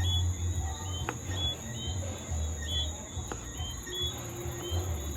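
Steady high-pitched insect drone, typical of crickets, with short bird chirps repeating every half second or so. A few sharp clicks and a low rumble that comes and goes sit underneath.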